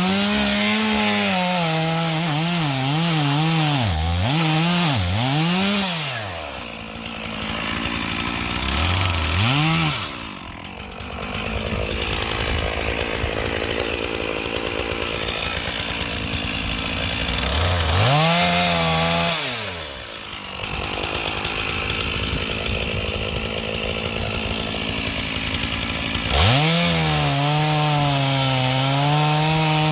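Stihl 461 chainsaw felling an ash tree: the engine is revved up and let back down several times, with stretches of noisier running while it cuts into the trunk, then held at steady high throttle cutting wood for the last few seconds.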